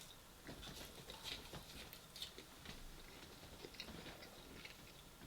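Faint chewing of food, with small scattered mouth clicks and crunches.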